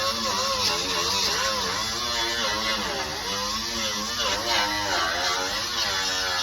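Handheld grinder stripping paint off car body metal. It runs loud and steady, its pitch wavering up and down as it is pressed into the panel and eased off, over a steady hiss.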